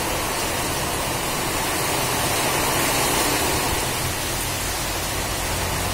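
Heavy rain pouring down in strong wind, a steady even hiss with no breaks.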